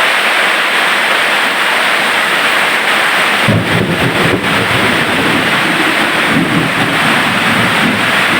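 Heavy rain pouring down in a steady loud hiss. A low rumble suddenly joins it about three and a half seconds in and keeps going unevenly.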